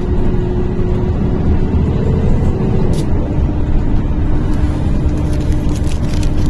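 NefAZ-5299 city bus heard from inside the cabin while under way: a steady low rumble of engine and road. Over it runs a steady whine that drops slightly in pitch about three seconds in, with a single click at about that moment.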